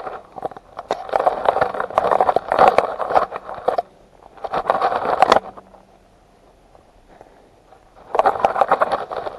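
Footsteps through dry undergrowth and leaf litter, twigs and leaves crackling and scraping in three bouts: a long one in the first half, a short one around the middle, and another near the end.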